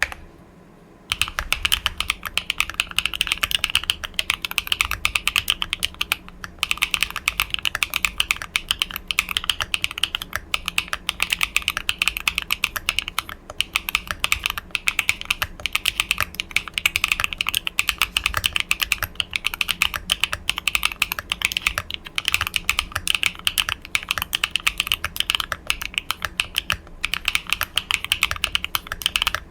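Continuous rapid typing on a Neo Ergo custom mechanical keyboard with HMX Xinhai switches and Osume Winterglow Eve keycaps, starting about a second in: a dense, steady stream of keystrokes.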